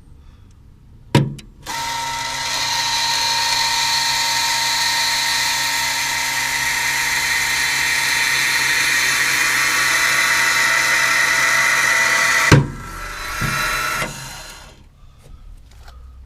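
A small electric motor runs steadily for about eleven seconds, a whine made of several fixed tones. A click comes just before it starts, and it cuts off abruptly with a knock.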